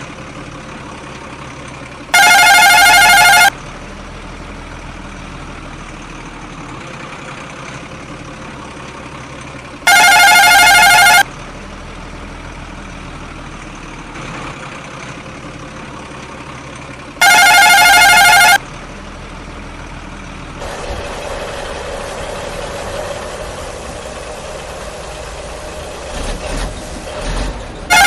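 Toy vehicle sound effects: a steady engine-like drone with a loud warbling electronic horn tone, about a second and a half long, sounding four times roughly every seven to eight seconds. About twenty seconds in the drone gets louder and steadier.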